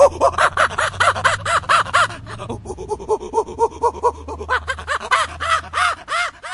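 Chimpanzee calling in a fast run of rising-and-falling hoots, about five a second. The run dips briefly about two and a half seconds in, then the hoots come a little slower, louder and higher-pitched near the end, and the calling cuts off sharply.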